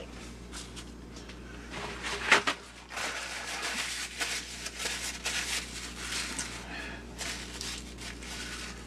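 Hands handling and fitting the plastic parts of a small motorised holiday display: a sharp plastic knock a couple of seconds in, then several seconds of rustling and scraping with small clicks.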